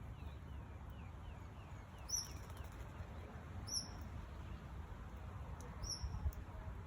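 Birds calling: a quick run of short falling notes, about four a second, for the first two seconds, then three sharp high chirps spaced about two seconds apart, over a low steady background rumble.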